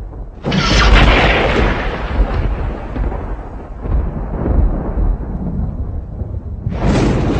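Thunder: a sharp crack about half a second in that rolls on as a long low rumble, then a second clap near the end.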